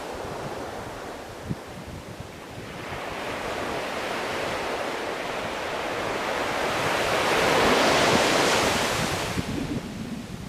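Sea surf: a wave swells over several seconds, is loudest about eight seconds in, then washes away. A low gusty rumble runs underneath.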